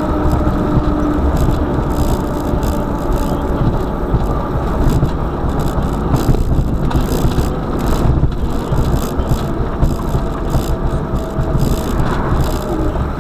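Car driving on a snowy road: a steady low rumble of road and engine noise with scattered rattles and clicks.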